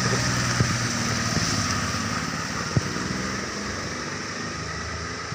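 Car engine running steadily, slowly growing fainter, with a sharp click about three seconds in.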